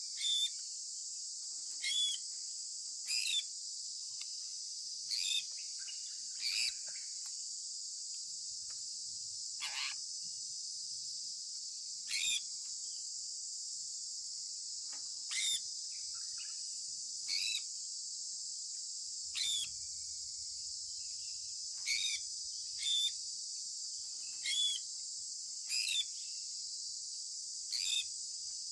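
Sun conure parrot giving short sharp chirps, one every second or two at irregular intervals, over a steady high-pitched insect-like drone.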